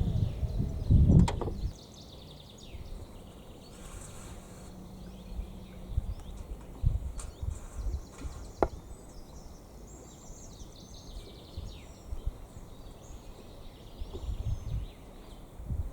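Thumps and knocks of camping gear being handled, loudest in the first second and a half, with a sharp click about a second in and another near the middle. Birds chirp in the background throughout.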